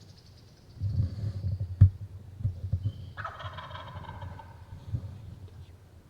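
Wild turkey gobbling once, a rattling call a little over a second long about three seconds in, from a longbeard tom. Before it, low rumbling with a sharp thump, the loudest sound.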